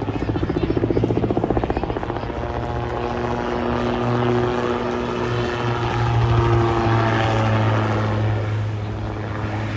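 Autogyro's engine and propeller droning in flight as it manoeuvres past, with a steady low hum under it; the pitch sinks a little in the second half.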